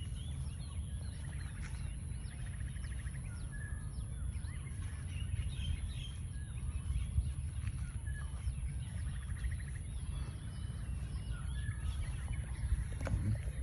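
Several birds chirping and whistling in overlapping calls, with a short rapid trill twice, over a steady low rumble.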